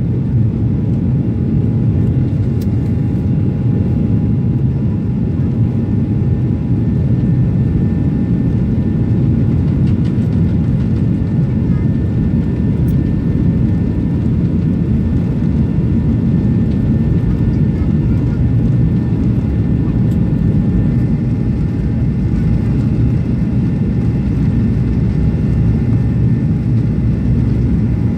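Steady low rumble of a Boeing 737's engines and airflow heard inside the passenger cabin, holding level throughout with a faint steady whine above it.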